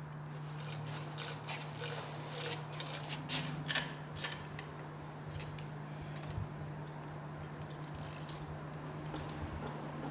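Hand tools clicking and scraping on metal in irregular clusters, over a steady low hum.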